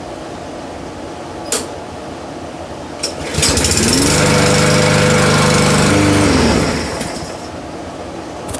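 Walk-behind lawn mower's small petrol engine pull-started and catching on the first pull about three seconds in. It spins up quickly, runs steadily for about three seconds, then cuts out and winds down.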